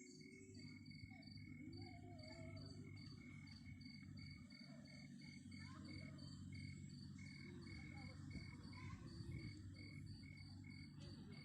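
A cricket chirping in an even, steady rhythm of about three to four short chirps a second, faint, over a low rumble.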